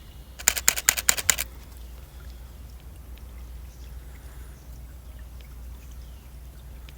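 Canon camera shutter firing a rapid burst of about ten clicks in one second, over the steady sound of shallow stream water running.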